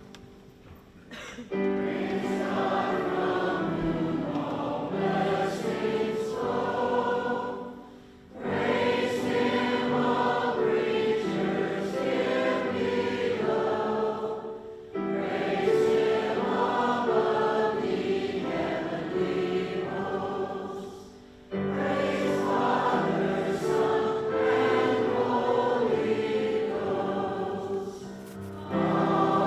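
Church choir singing, in phrases of about six to seven seconds with short breaks between them.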